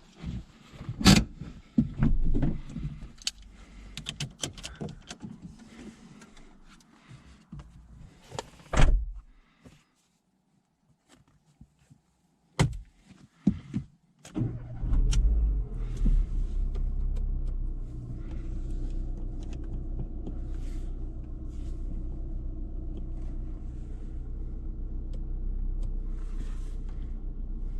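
Clicks and knocks of handling around a car, then a short quiet and two sharp clicks. Just past halfway a car engine starts and settles into a steady idle.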